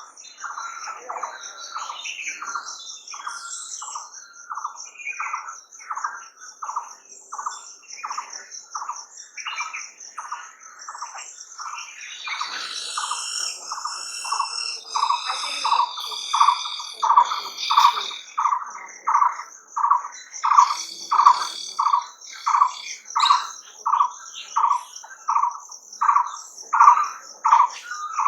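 Birdsong: one bird repeats a short call over and over, about one and a half notes a second, growing louder over the second half. A continuous high, wavering trill runs behind it, and other birds chirp for a few seconds in the middle.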